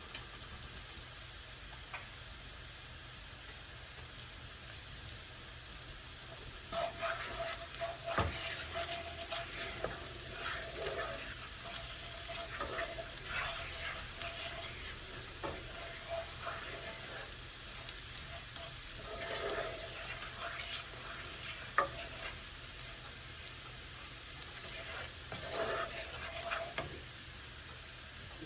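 Shallots and garlic frying in a skillet with a steady sizzle. From about seven seconds in, the pan is stirred at intervals, with scraping in the pan and a couple of sharp clicks.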